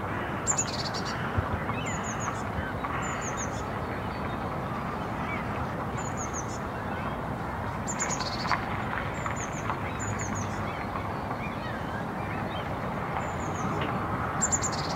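Outdoor park ambience: a small songbird gives short, high, falling chirps every second or two over a steady low background hum of distant town noise.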